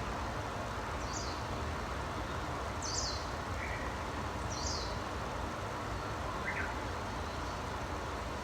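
Wild birds calling over a steady background rush: three short, high, falling notes a second or two apart, then two lower short calls.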